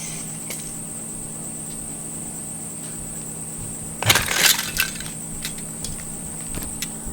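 Small toy debris pieces clattering as they are knocked about, in a short burst of clicks about four seconds in, followed by a few scattered ticks, over a steady hum.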